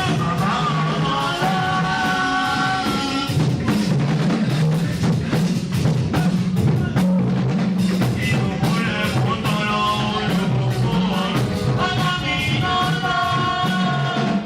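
Live praise music with a drum kit and bass playing a steady beat, with singing in held phrases near the start and again in the second half.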